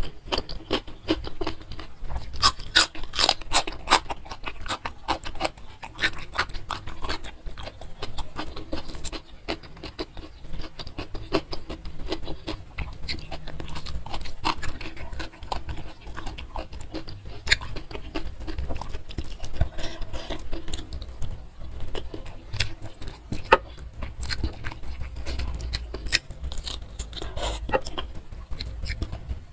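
Close-miked chewing and crunching of raw vegetables and rice eaten by hand. The crispest crunches come in the first few seconds, with softer chewing after.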